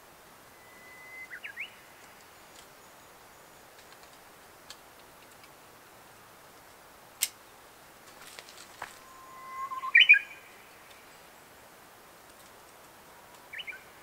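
A songbird sings three phrases, each a held whistled note that breaks into a quick flourish of higher notes; the loudest comes about ten seconds in. A single sharp click about seven seconds in is a multi-tool's cutter snipping a camellia stem.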